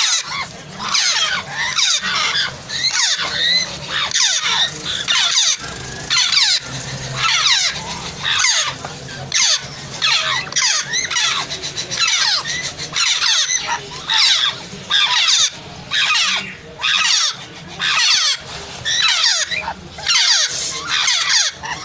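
Green parrot chick calling over and over with harsh, squealing calls, about one a second, each call falling in pitch.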